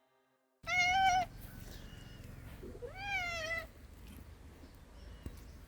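Domestic cat meowing twice: a short meow, then a longer one about two seconds later that rises and falls in pitch.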